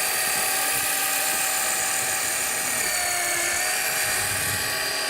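A machine's motor running with a steady, high-pitched whine made of several tones, sagging slightly in pitch about three seconds in.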